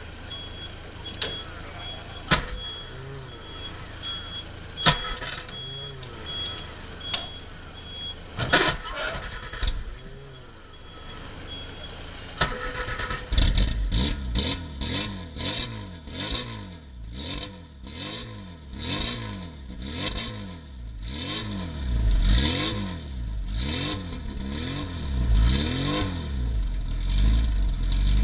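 Classic Morris Mini Cooper S's A-series four-cylinder engine starting about twelve seconds in, after a stretch of scattered clicks and knocks. It is then revved in repeated blips through the exhaust, the pitch rising and falling about once a second.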